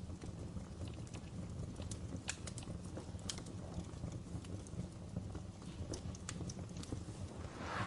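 Logs burning in a fireplace: a steady low rumble of flame under irregular sharp crackles and pops, with a louder brief hissing crackle near the end.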